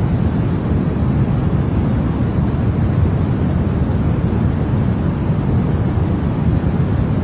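Continuous sleep noise for babies, sold as white noise: a steady, deep, even rush, strongest in the low end, with no changes or breaks.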